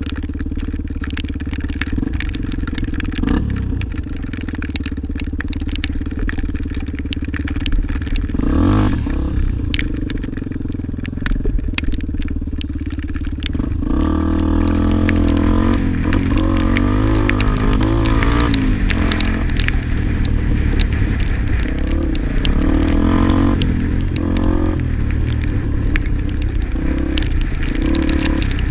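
Dirt bike engine running, its revs rising and falling as it rides, with frequent sharp clicks and clatter from the rough trail.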